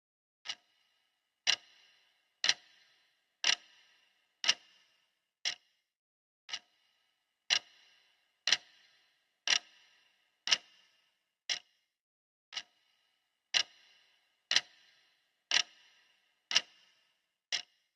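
Clock ticking steadily about once a second, some ticks louder than others.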